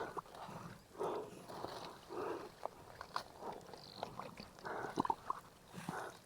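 An animal calling over and over in short, evenly spaced calls, about one or two a second, with a few sharp clicks between them.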